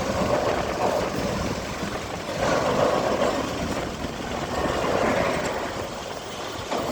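Heavy diesel trucks running and moving past in slow port traffic. The noise swells and fades several times as vehicles pass.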